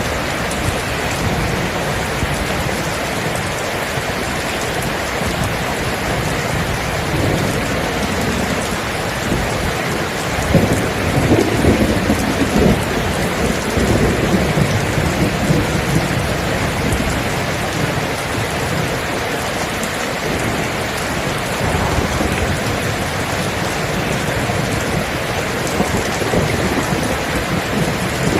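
Steady heavy rain in a thunderstorm, with a roll of thunder swelling up about ten seconds in and fading over a few seconds.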